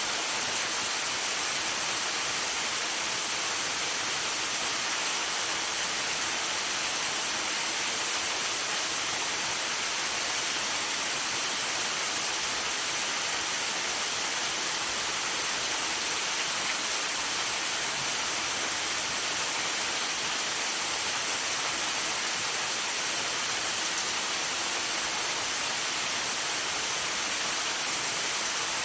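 Waterfall rushing steadily: an unbroken hiss of falling water, strongest in the high range, with no separate splashes or knocks.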